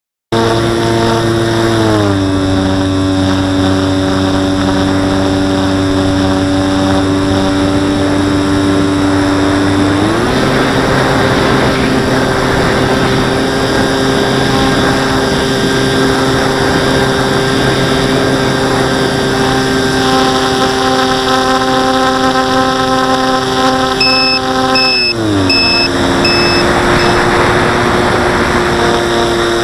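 Radio-controlled model airplane's motor and propeller running as a steady whine with several tones over a rush of air. The pitch steps down about two seconds in, rises about ten seconds in, and falls again near the end.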